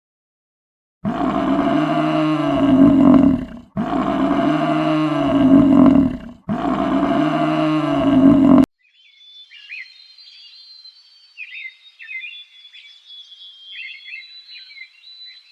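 Three long bovine bellows in a row, each rising and then falling in pitch, followed by faint high chirping after about nine seconds.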